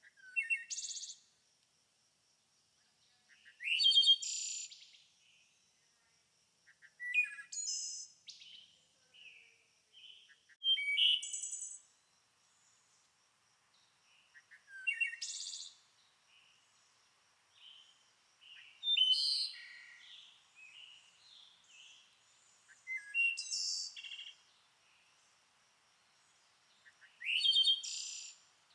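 Songbird singing, with short high-pitched phrases of about a second each repeated every three to four seconds. A faint steady high tone runs underneath.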